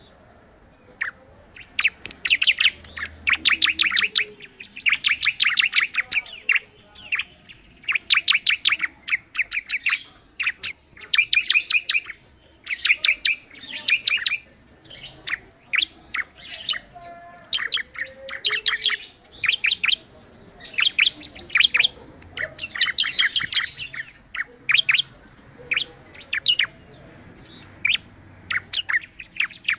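Prinia (ciblek) singing: phrase after phrase of rapid, high, sharp chirps, each phrase about a second long with short gaps between.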